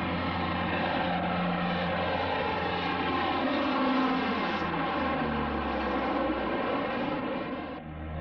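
Fixed-wing aircraft engines running: a steady drone made of several layered engine tones, some shifting in pitch partway through. The sound dips briefly near the end and then changes character.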